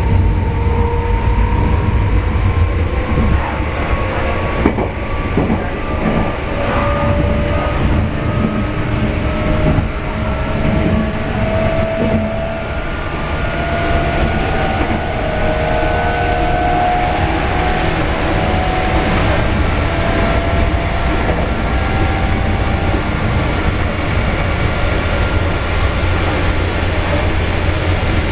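Meitetsu 5300 series electric train running, its motor whine rising slowly in pitch as it picks up speed and then holding steady, over a constant low rumble, with a few sharp clacks of wheels over rail joints. Heard from inside the front car.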